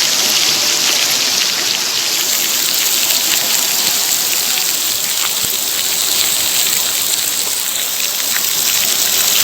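Steady rain falling, the patter of many drops striking a surface close by.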